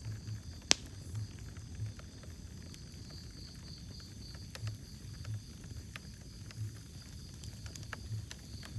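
Wood fire in a fireplace crackling: a low fluttering rumble of flames with scattered sharp pops, one loud pop near the start.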